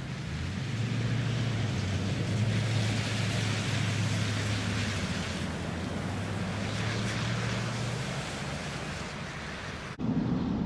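A vehicle driving along a road: a steady low engine drone under a wash of tyre and wind noise. The sound changes abruptly near the end, switching to a quieter in-cabin hum.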